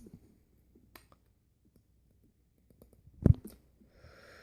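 Scattered faint clicks, then a single louder knock about three seconds in, followed by a short, soft breathy noise.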